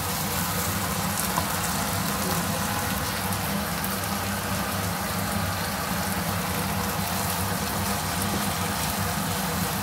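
Chili sambal with tongkol and salted fish frying in a wok: a steady sizzle, with the spatula stirring and scraping through it, over a low steady hum.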